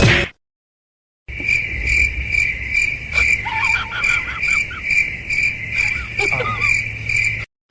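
Cricket chirping steadily at about two chirps a second, with a few short squeaky calls in between.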